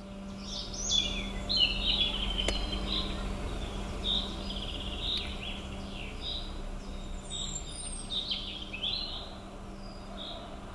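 Woodland birds singing: a run of short, high chirps and whistles with a brief trill in the middle, over a faint steady low hum.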